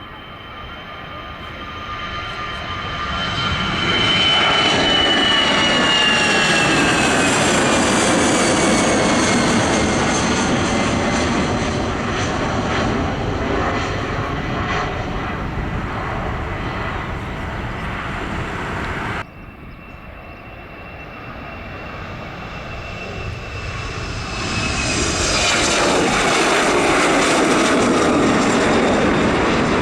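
Jet airliner engines passing close, a loud roar with a whine that falls in pitch as the plane goes by. The sound cuts off suddenly about two-thirds of the way through, and a second jet builds up to the same loud roar with its own falling whine.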